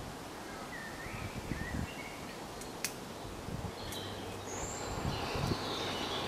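Wild birds chirping in short phrases over a steady outdoor hiss, with a few sharp clicks, one standing out about three seconds in.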